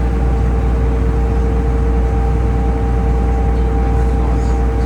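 Taxi boat's engine running steadily under way: a loud, even low drone with a steady whine on top.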